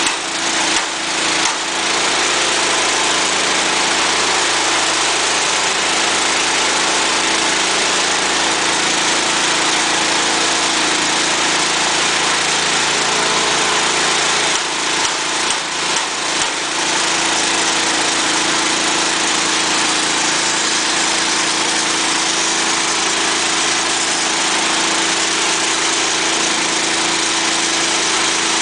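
Petrol engine running steadily while it drives a feed extruder, with a steady hum under the machine noise. The sound dips briefly near the start and again about halfway through.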